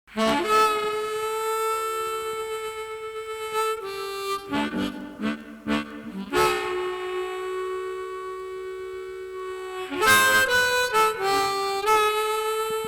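Blues harmonica music: long held chords broken by quick runs of short notes about four seconds in and again near ten seconds.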